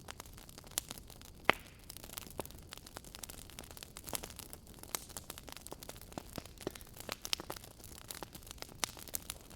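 Fireplace crackling: irregular sharp pops and snaps, several a second, over a low steady hiss, with one louder pop about a second and a half in.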